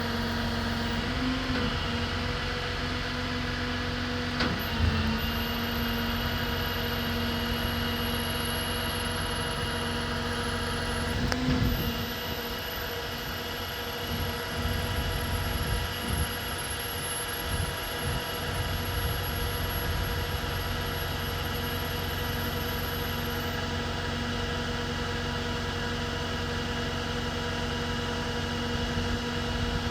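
Ram 5500 bucket truck's engine running steadily at idle, a constant hum with two faint clicks, about four and a half and eleven and a half seconds in.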